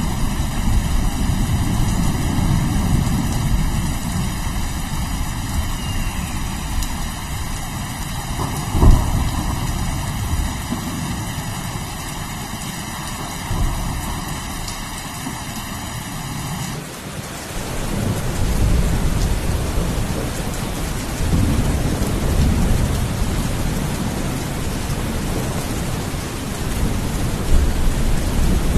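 Steady heavy rain with thunder rumbling throughout, and a sharp, loud clap of thunder about nine seconds in. About seventeen seconds in the rain's sound changes abruptly, as at a join between two recordings.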